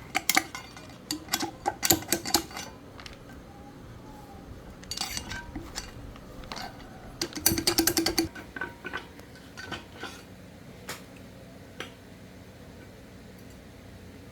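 Metal tools and parts clinking and clattering in quick bursts, loudest about seven to eight seconds in, then a few single clicks.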